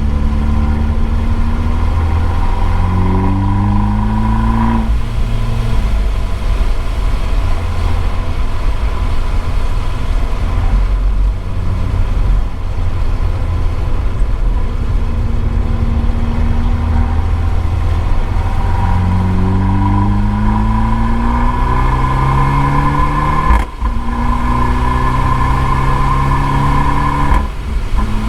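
Abarth 595 esseesse's 1.4-litre turbocharged four-cylinder through an Akrapovič exhaust, heard from a microphone in the boot, accelerating hard: the pitch climbs and drops back at each upshift. It eases off about five seconds in, runs steadier for a long stretch, then pulls up through the gears again, with sharp breaks at the shifts near the end.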